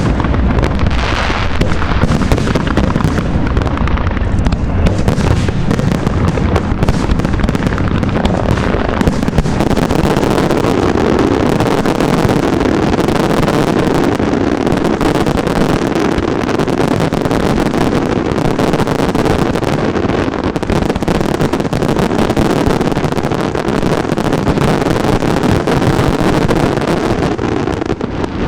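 Aerial fireworks going off in a dense, continuous barrage of bangs and crackles, with no gaps between bursts.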